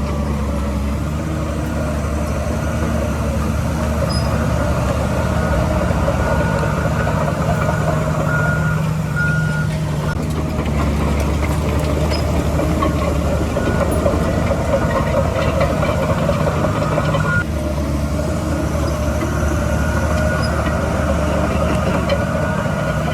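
Heavy diesel earthmoving machinery running steadily under load, with a reversing alarm giving repeated beeps for about the first ten seconds and again at the very end.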